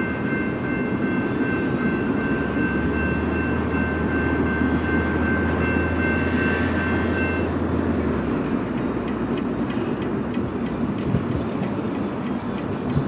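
Steady rumble of a BNSF double-stack intermodal freight train running on the tracks. A steady high ringing of three tones runs over it and cuts off a little past halfway. In the second half, light clicks and knocks come as a tanker semi truck nears and drives over the grade crossing.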